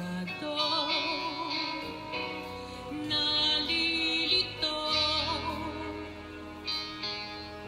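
A woman singing a slow ballad with vibrato over a sustained instrumental accompaniment.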